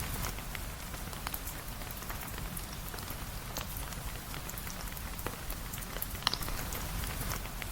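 Steady rain, a constant hiss with a low rumble beneath it, scattered with many small sharp clicks and pops. One louder pop comes a little over six seconds in.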